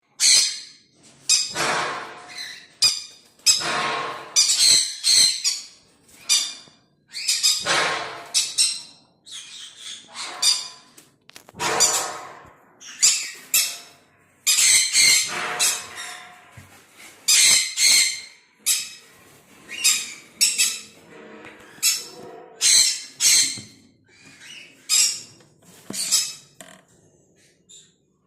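A pair of sun conures giving loud, harsh screeching calls, one after another with short gaps.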